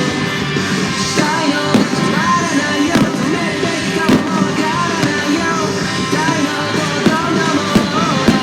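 A song with singing plays loud, with several sharp firework bangs through it.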